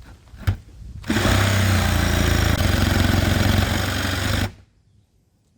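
Electric jigsaw cutting through the solid wooden door of a box truck: it starts about a second in, runs loud and steady for about three and a half seconds, then stops suddenly.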